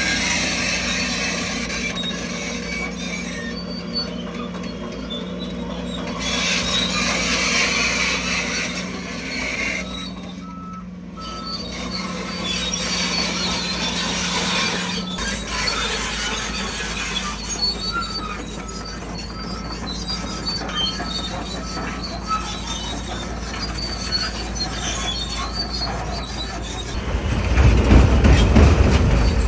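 Crawler bulldozer's diesel engine running with its steel tracks squeaking, growing louder near the end.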